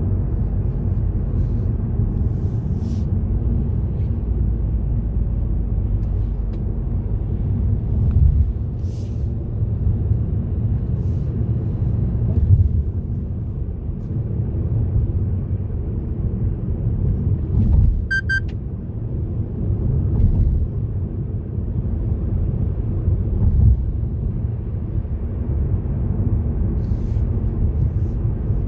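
A car driving on a road: a steady low rumble of engine and tyres, with a few louder bumps along the way. A short high electronic beep sounds once about 18 seconds in.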